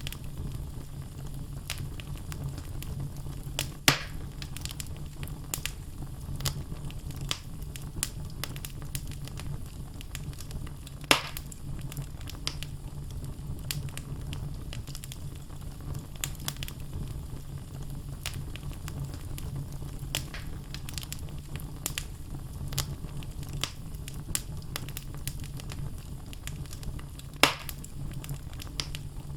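Wood logs burning in a fireplace: a steady low rumble of flames with constant small crackles and three louder sharp pops, at about 4, 11 and 27 seconds in.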